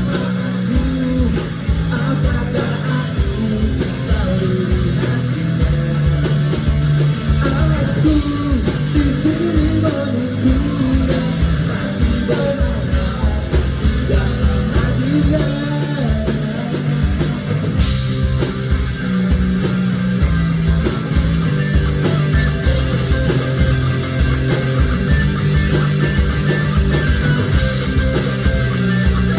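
Live band playing pop-rock with electric guitar, bass and drums, at a steady beat.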